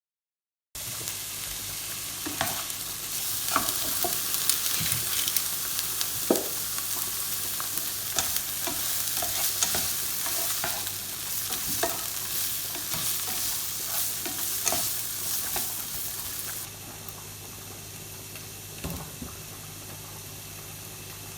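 Sliced peppers and onions sizzling in hot oil in a frying pan, with a utensil clicking and scraping against the pan as they are stirred. The sizzle starts abruptly just under a second in and becomes quieter with fewer clicks near the end.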